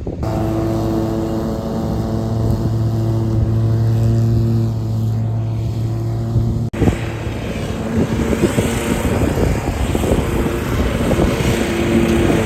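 An engine running steadily at a constant speed. About two-thirds of the way through, it cuts abruptly to a rougher, noisier engine sound mixed with wind on the microphone.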